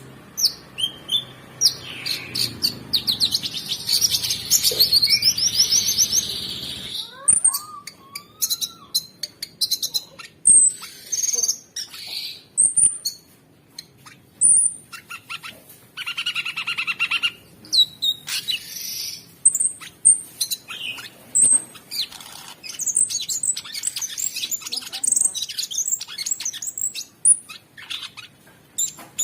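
Cucak sungkok singing a fast, continuous song of varied chirps, whistles and rattling trills, with a long dense trill in the first seven seconds or so.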